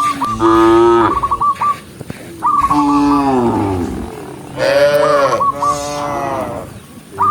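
Cattle mooing, about four long calls in a row, some falling in pitch, with a rapid high chirping trill recurring between the calls.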